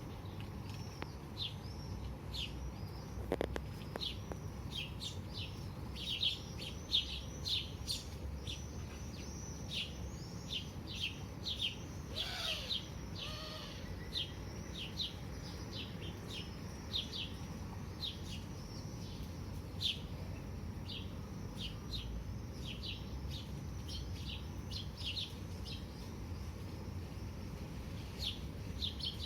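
Small birds chirping: many short, high chirps in quick succession throughout, with one louder, longer call about twelve seconds in.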